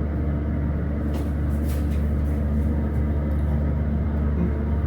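Schindler hydraulic elevator running: a steady low hum, with a few faint ticks about a second in.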